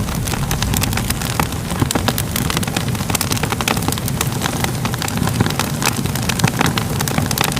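Crackling fire, with many small sharp pops and snaps over a steady low roar.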